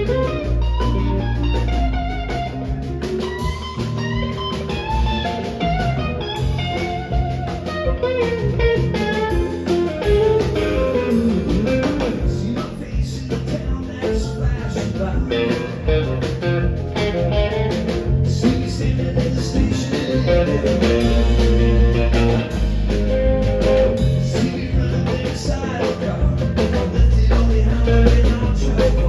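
Live rock band playing an instrumental passage: a guitar carries a moving lead line over bass, keyboards and a steady drum beat.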